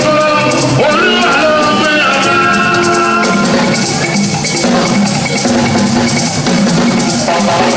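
Live band playing an upbeat Latin-style number, with drum kit and percussion prominent under sustained melodic lines.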